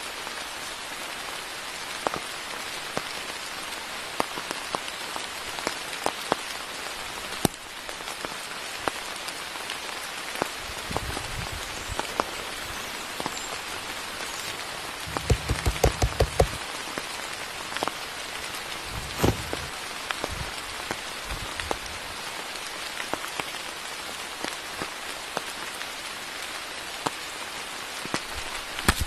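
Steady rain falling in a forest, with individual heavier drops tapping sharply through it. About halfway there is a quick run of louder, closer taps with low thuds.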